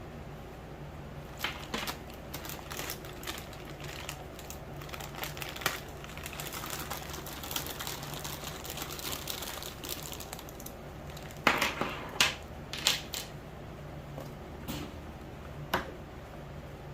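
Irregular sharp clicks and knocks with rustling, from the parts of a grow tent kit being handled and fitted during assembly. The loudest run of clicks comes about two-thirds of the way through.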